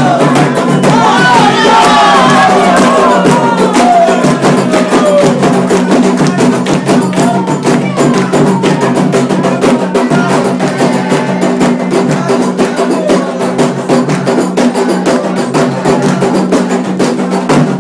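Candomblé ritual music: drums and percussion beating a fast, dense rhythm, with voices singing a chant over the first few seconds.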